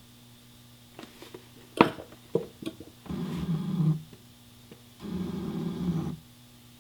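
A plastic squeeze bottle of gear oil feeding a motorcycle gearbox through its fill hole: a few clicks and a sharp knock, then two low, rough gurgles of about a second each as the bottle is squeezed and oil and air push through the spout.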